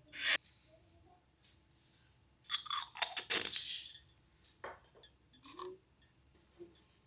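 Miniature cookware being handled: a sharp clink or knock, then a crackly run of small clinks and scrapes, and two shorter clatters.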